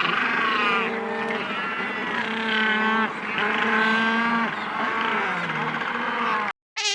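Cow mooing: about four long calls in a row, cutting off abruptly near the end.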